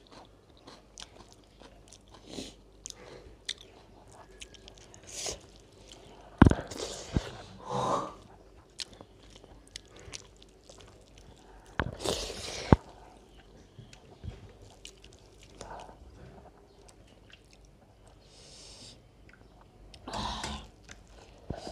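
Close-miked chewing and lip-smacking of rice and dal eaten by hand, with many small wet clicks. A few louder noisy breaths and mouth sounds come about a third of the way in, just past halfway and near the end.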